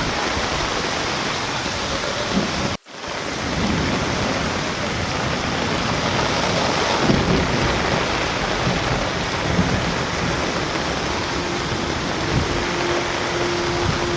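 Heavy rain pouring steadily, a dense even hiss. About three seconds in, the sound cuts out for a split second and comes straight back.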